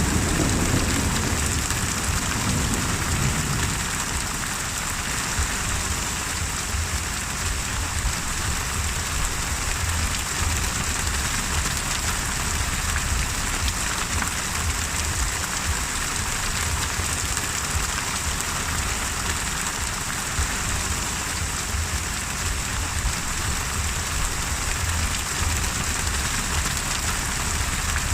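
Steady heavy rain falling, with the low rumble of thunder dying away in the first few seconds.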